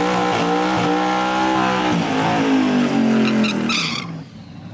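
A Chevrolet Camaro ZL1's supercharged V8 running hard at high revs. Its pitch climbs, then holds, and a few sharp crackles come before it drops away about four seconds in.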